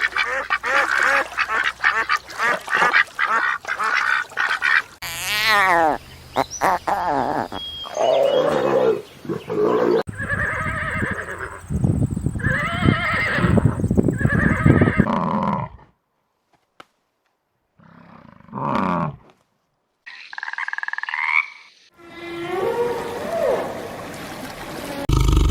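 A string of different animal calls, cut one after another from several clips: a fast run of rapid pulsed calls, then repeated pitched calls, broken by two short silences about two-thirds of the way through.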